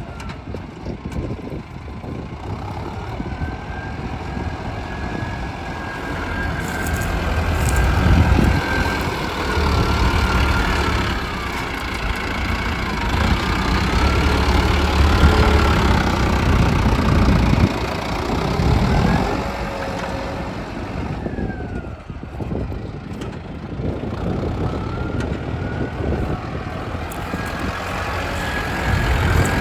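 Mahindra Arjun Novo 605 DI tractor's diesel engine running under changing load, its pitch rising and falling. It is loudest around the middle and dips briefly later on.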